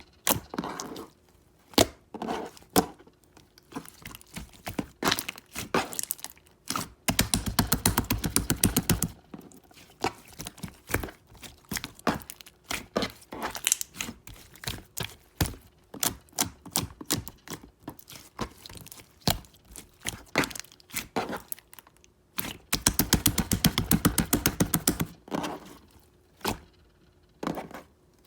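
A series of sharp clicks and taps, with two fast rattling runs of rapid clicks, one about seven seconds in and one about twenty-three seconds in.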